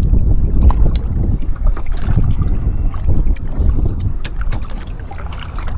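Small choppy waves slapping and sloshing against a polyethylene recreational kayak (Pelican Argo 100X) while it is paddled through a light swell, with wind buffeting the microphone as a steady low rumble and short knocks of water against the hull.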